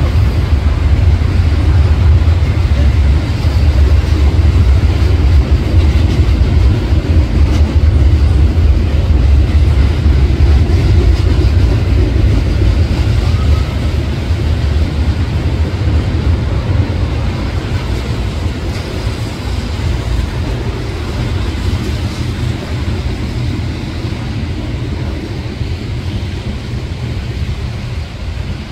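Freight cars of a Canadian National manifest train, hoppers and tank cars, rolling over a railway bridge. It is a loud, steady rumble of wheels on rail that slowly fades over the second half as the train goes by.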